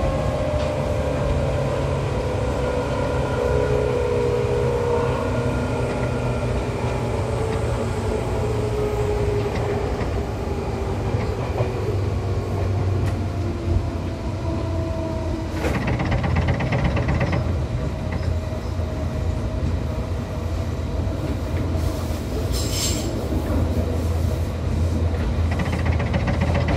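Seibu train set 263F running, heard from on board: a steady rumble of wheels on rail, with the motor's whine falling in pitch over the first several seconds as the train slows. A louder patch of running noise comes about two-thirds of the way in, and a brief high wheel squeal follows a few seconds later.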